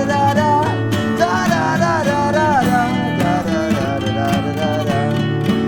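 Acoustic guitar strummed, with a wordless sung melody gliding over it through the first few seconds; then the guitar carries on alone.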